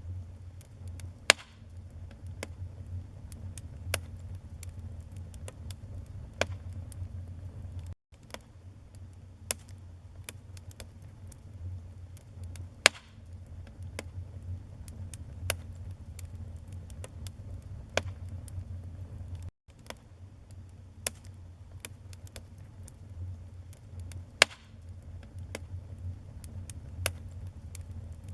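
Wood fire in a fireplace crackling: irregular sharp pops and snaps, a few of them louder, over a steady low rumble of the burning. The sound cuts out for an instant twice.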